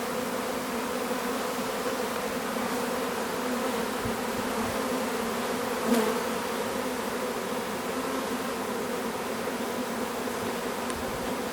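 Swarm of honeybees buzzing in a steady, even hum as they fly around and crawl into a hive box, with a brief louder buzz about six seconds in.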